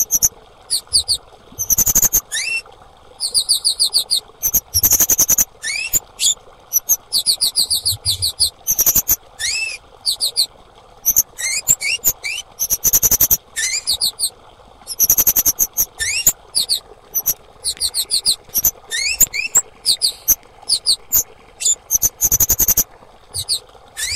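Female kemade bird calling: rapid series of very high, thin chirps and fast trills in repeated bursts with short gaps, mixed with brief upward-sliding notes.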